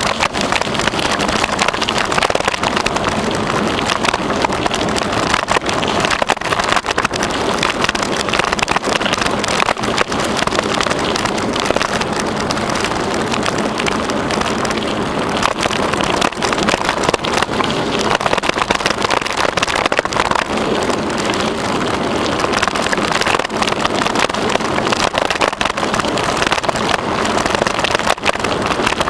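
Bicycle riding steadily along a trail: a constant rolling rush of tyres on the path, with dense small rattles and clicks and some wind on the microphone.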